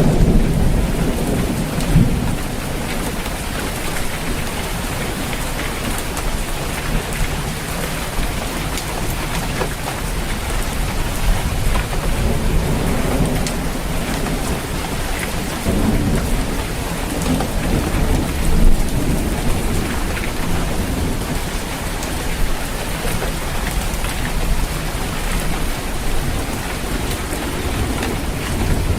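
Steady rain falling on a roof, with low rumbles of thunder rolling in and out, swelling near the start and again about halfway through.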